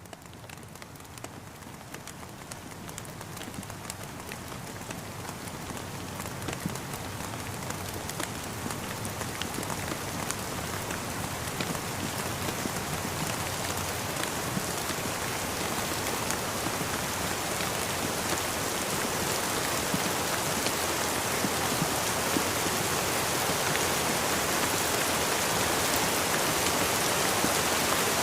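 Steady rainfall, a dense hiss dotted with many small raindrop ticks, growing gradually louder throughout.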